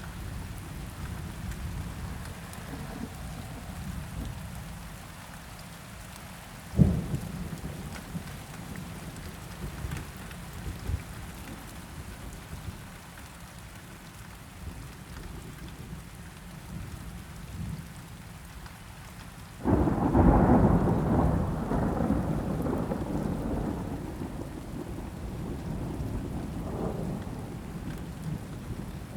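Steady rain with low rumbling thunder. A single sharp crack comes about a quarter of the way in, and a loud thunderclap about two-thirds in rolls and fades over several seconds.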